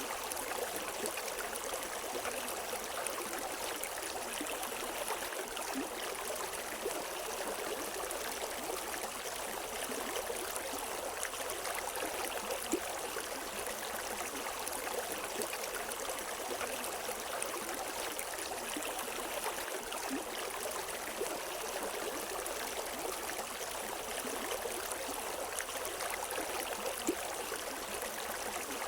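River water flowing steadily over rocks, a continuous rushing with small splashes and gurgles, no birds.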